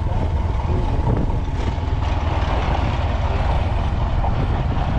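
Heavy vehicle engine running steadily, a low rumble with a faint steady whine above it.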